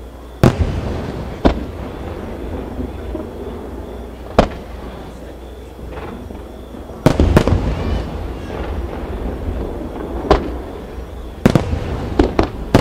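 Aerial firework shells bursting: about nine sharp bangs at uneven intervals, each trailing a rolling echo, with a close pair about seven seconds in and a quick cluster near the end.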